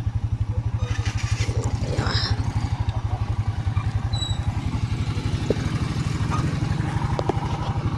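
An engine running steadily at idle, a low, even, rapid throb.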